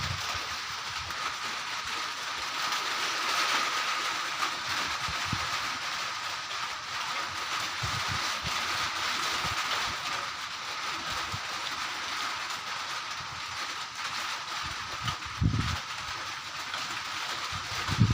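Steady hiss of rain, with a few gusts of wind buffeting the microphone in low rumbles.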